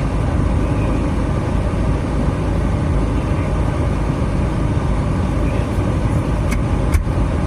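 Steady low rumble of a motor vehicle, with a couple of faint clicks near the end.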